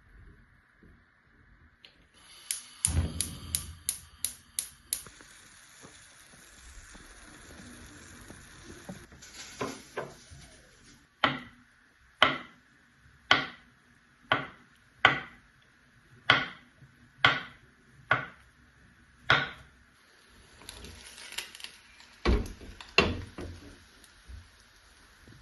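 Kitchen work sounds: a quick run of light clicks, then a steady series of sharp knocks about once a second, with a few more near the end.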